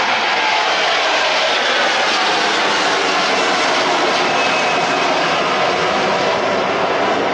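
Jet airliner's engines running loud and steady, a continuous rush of engine noise.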